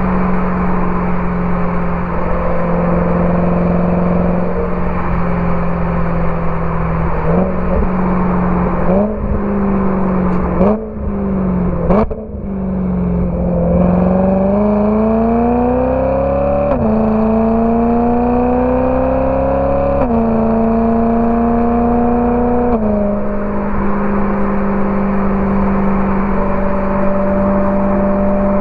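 BMW E92 M3's V8 through a Borla ATAK exhaust, cruising steadily, then giving a few quick throttle blips in the middle. It then accelerates through three upshifts, the pitch climbing and dropping at each shift, and settles back to a steady cruise near the end.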